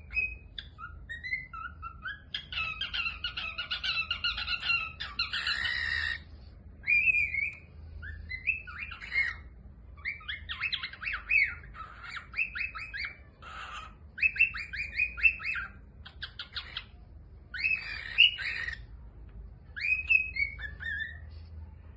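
A small pet parrot calling: chirps and short sliding whistles mixed with quick runs of rapid chattering notes and a few harsh squawks, coming in bursts with short pauses between.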